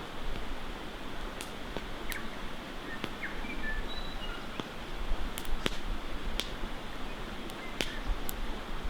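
Wood fire crackling, with sharp pops scattered irregularly over a steady rushing hiss. A few short, high bird chirps come in between about two and five seconds in.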